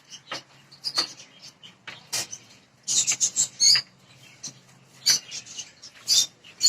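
Lovebirds chirping: many short, sharp, high chirps in an irregular chatter.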